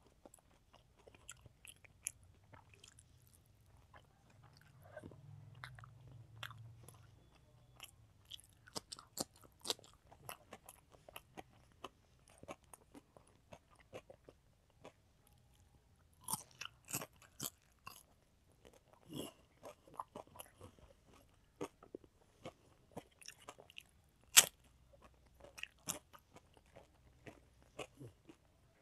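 Close-up eating sounds of a child eating rice and fried food by hand: wet chewing, lip smacks and crunching, heard as a scatter of short clicks with quiet gaps. One sharp crack stands out about two-thirds of the way through.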